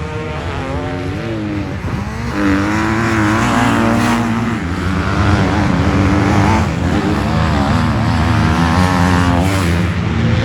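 Several motocross bikes racing, their engines revving up and dropping back through the gears, the pitches of different bikes overlapping and rising and falling. The engines grow louder about two seconds in.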